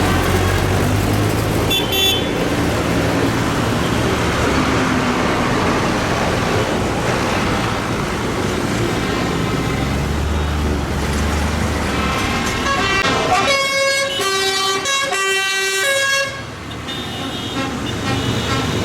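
Tractor engines running as a convoy passes. About two-thirds of the way through, a run of horn toots lasts several seconds.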